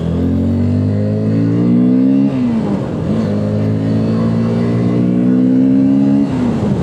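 Motorcycle engine accelerating through the gears. The revs climb steadily, fall with an upshift a little over two seconds in, climb again, then fall with another upshift near the end.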